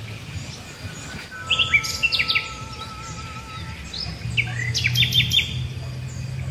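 Birds chirping in quick short calls, in a cluster about a second and a half in and another about four to five seconds in, over a steady low hum.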